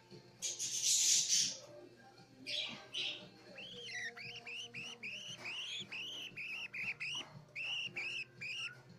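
Budgerigar chick calling: a few loud raspy, hissing calls, then about three and a half seconds in a quick run of short, arching cheeps, about two to three a second.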